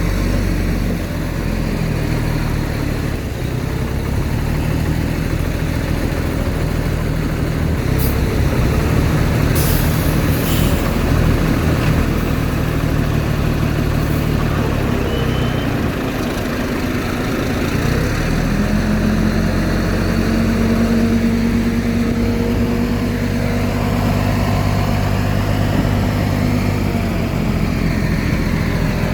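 Heavy diesel earthmoving machinery engine running steadily, with a few sharp clanks about eight to eleven seconds in. About eighteen seconds in the engine pitch rises and holds higher for roughly nine seconds before settling back.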